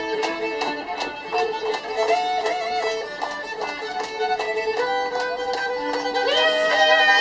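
A fiddle playing a tune, with a few notes slid up into near the end.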